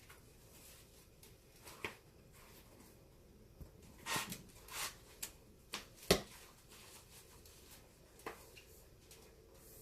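Hands working on a leather baseball glove under repair: scattered short rustles and sharp clicks, the loudest click about six seconds in.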